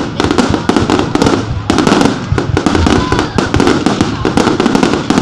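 Fireworks going off in a dense, continuous barrage of bangs and crackles, many each second with no real break.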